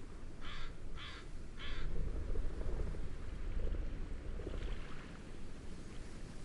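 A bird gives three short calls about half a second apart, with a fainter call later on, over a steady low rush of wind and gentle waves that swells about two seconds in.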